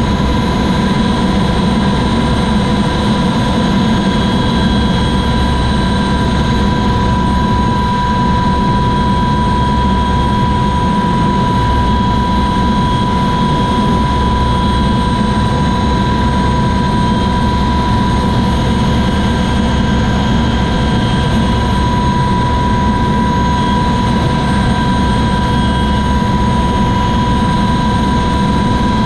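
Helicopter running steadily: a constant high whine over a dense low engine and rotor rumble, with no change in pitch or level.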